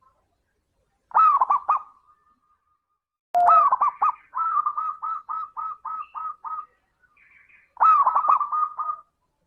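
Zebra dove (perkutut) cooing in three separate phrases. The middle phrase is the longest and ends in a run of about ten quick, evenly spaced notes.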